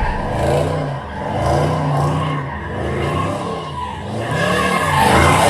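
A car engine revving up and down over and over while the tyres spin and squeal in a slide, the sound of a car drifting or doing donuts.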